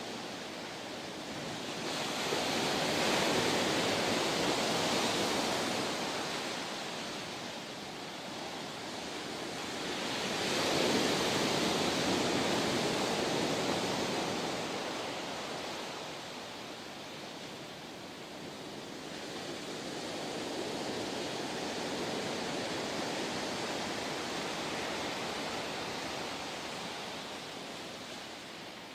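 Ocean surf: waves breaking and washing in, rising and falling in three slow surges about eight to ten seconds apart, the last one weaker.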